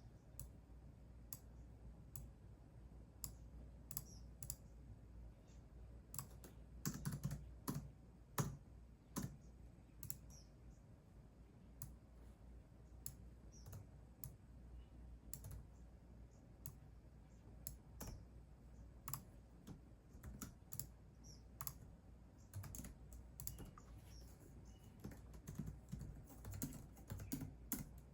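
Typing on a computer keyboard: irregular keystroke clicks, with a quicker flurry of keys about a third of the way in.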